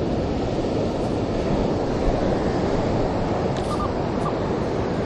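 Rough ocean surf washing steadily onto the beach, a continuous rush of breaking waves.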